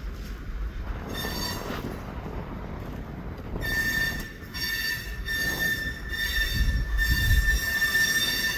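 Train wheels squealing against the rails: a brief high squeal about a second in, then a sustained high-pitched squeal with several overtones from about three and a half seconds in, over a low rumble of the moving train.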